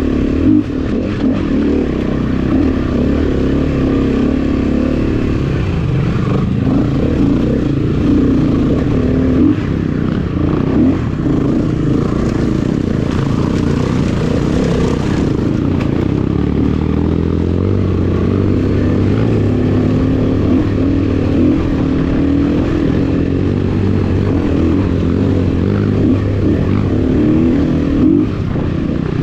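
Honda CRF250F dirt bike's four-stroke single-cylinder engine running under way, its revs rising and falling with the throttle.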